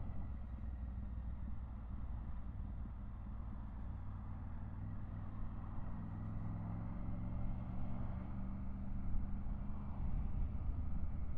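Triumph Tiger 900 GT Pro's three-cylinder engine running steadily on the move, with wind and road noise. The engine note grows more distinct from about halfway through.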